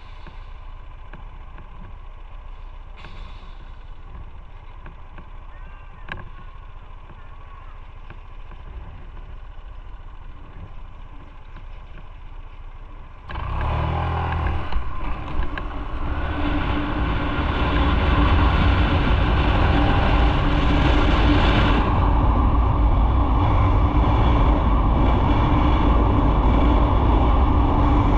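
Motorcycle riding, heard from the bike: a steady, fairly quiet engine sound for the first dozen or so seconds, then about 13 seconds in the noise jumps suddenly and keeps building as the bike picks up speed, with heavy low wind rumble over the engine.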